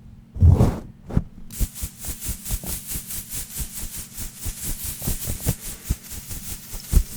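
Close-miked ASMR tapping and scratching on an unidentified object: two heavy knocks, then from about a second and a half in a rapid, even run of scratchy strokes, several a second, with a sharper knock near the end. A steady low hum runs underneath.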